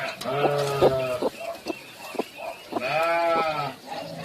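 A bleating animal gives two long bleats, the second about three seconds in and rising then falling in pitch, with a few sharp clicks in between.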